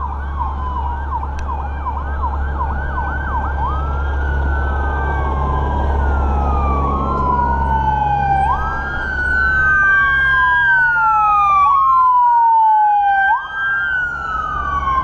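Emergency vehicle siren: a fast yelp that changes about four seconds in to a slow rising and falling wail, with overlapping wails near the end. Under it runs a steady low rumble.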